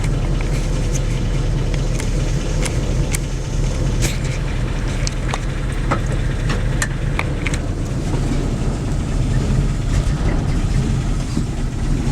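A 1972 Dodge D200 pickup's engine running steadily at low speed, still warming up after a cold start, with the transmission in reverse. Scattered sharp clicks and ticks sound over it during the first two-thirds or so.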